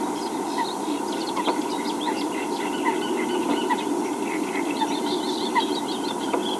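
Many birds giving short, overlapping chirping calls continuously, over a steady low rumble.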